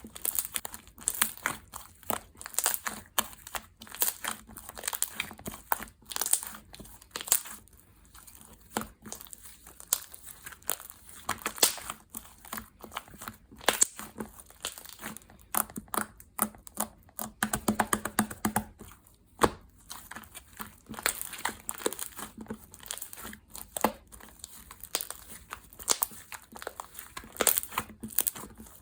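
Slime being squished, pressed and stretched by hand, making a continuous run of irregular crinkly clicks and pops, denser for a couple of seconds past the middle.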